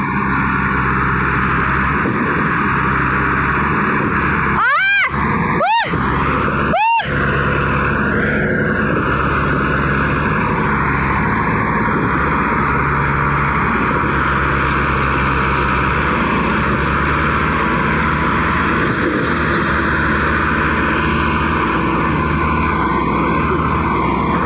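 Tractor diesel engines running hard and steadily under load. The sound cuts out briefly three times, with short sweeping sounds, between about five and seven seconds in.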